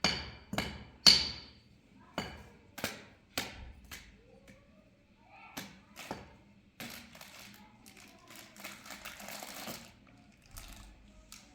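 A series of sharp knocks, about two a second at first, some with a short high ring, then sparser. They are followed by a few seconds of scraping noise.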